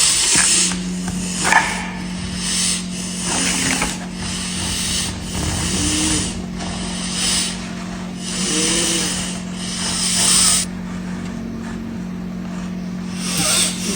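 Microwave oven running with a steady hum that starts about half a second in, while something heating inside hisses and crackles in bursts every second or so, easing off for a few seconds near the end.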